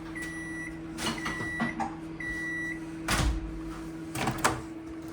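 Microwave oven finishing its cycle: three high, steady end-of-cycle beeps about a second apart over the oven's low hum, then two loud knocks as the microwave door is opened.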